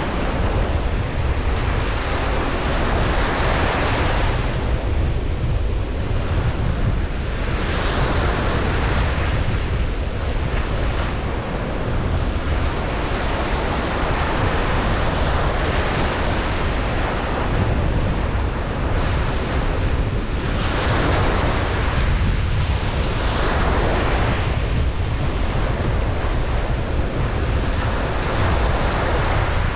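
Ocean waves breaking and washing up a beach, the surf swelling and fading every few seconds over a constant low rumble.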